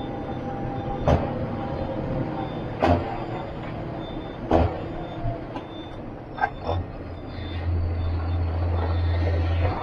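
John Deere 7530 Premium tractor's six-cylinder diesel engine running steadily under way while hauling a maize trailer, with several sharp knocks and rattles. About three-quarters of the way through, the low engine drone grows markedly heavier.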